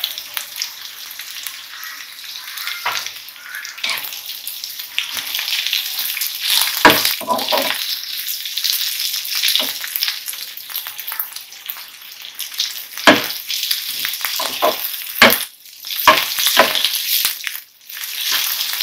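Chopped cabbage, capsicum, onion and potato sizzling steadily as they fry in a pan, with a slotted metal spatula scraping and knocking against the pan again and again as the vegetables are stirred.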